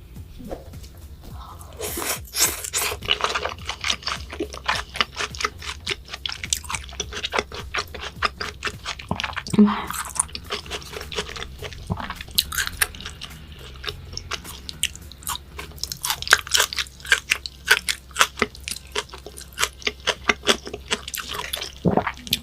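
A person chewing raw beef close to the microphone: a fast, continuous run of wet, sticky mouth clicks and smacks.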